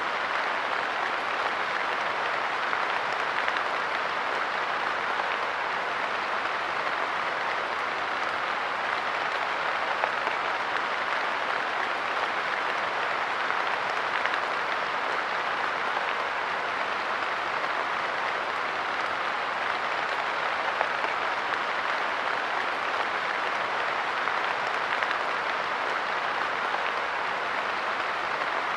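Light rain falling steadily on a park bench: an even patter of many drops, with a few slightly louder single drops.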